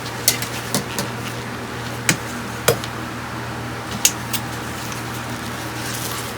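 Several light, sharp clicks and taps, as of tools and small parts being handled on a workbench, over a steady low hum.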